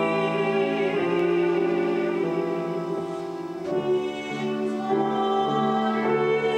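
A woman singing a classical art song in operatic style, with piano accompaniment, from a concert recording.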